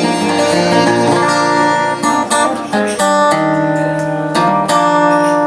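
Acoustic guitar playing an instrumental passage, with strummed chords and sharply plucked notes.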